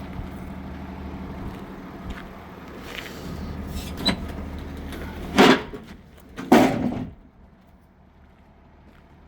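Truck liftgate being worked: a steady motor hum, then two loud metal bangs about a second apart, after which the hum cuts off.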